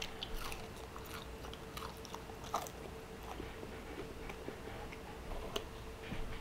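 Close-miked chewing of crispy fried pork belly (chicharrón): crunchy crackles as the crisp pieces break in the mouth, most frequent in the first few seconds and then only now and then.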